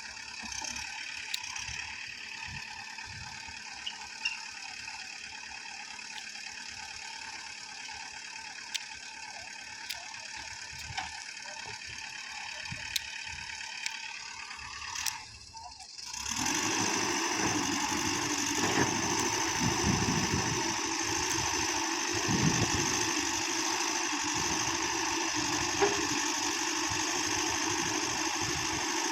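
A quiet steady hum with scattered clicks, then, after a brief drop about halfway through, a louder tractor engine running steadily.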